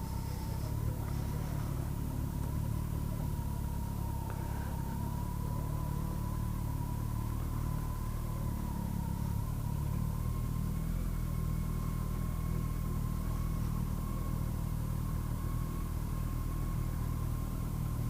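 Kawasaki GTR1400's inline-four engine running steadily at low speed while the motorcycle is ridden slowly through a car park, with a constant thin whine over the low rumble.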